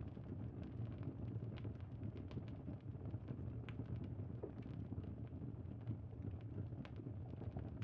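Campfire crackling: a steady low rumble under frequent small, irregular pops and snaps.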